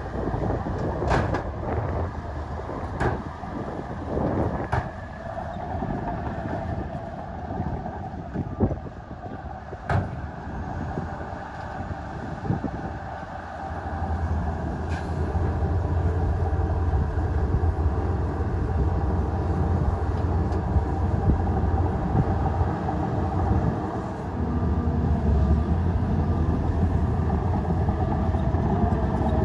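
Heavy diesel earthmoving machinery running, with a few sharp clanks in the first half; the engine grows louder about halfway through and stays there.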